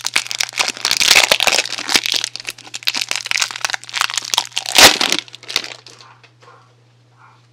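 Soap packaging being crinkled and torn open by hand: a dense crackling rustle, with one sharp, louder crackle about five seconds in; it stops soon after.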